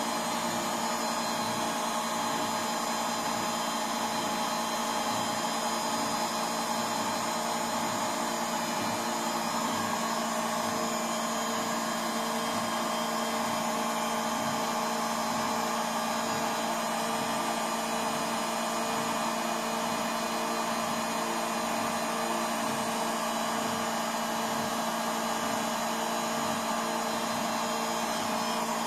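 Indesit NSL 705 7 kg front-loading washing machine on its spin cycle, the drum spinning at speed with a steady whir. The machine runs on freshly replaced drum bearings and drum seal.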